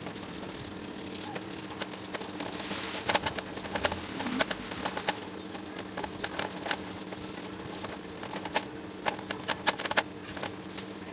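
Irregular light clicks and taps of small parts or tools being handled, over a steady low hum.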